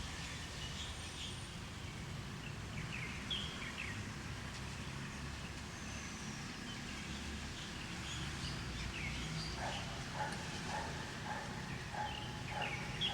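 Several birds chirping in short high chirps scattered throughout, over a steady low background rumble. From about two-thirds of the way in, a lower repeated call joins, about two to three notes a second.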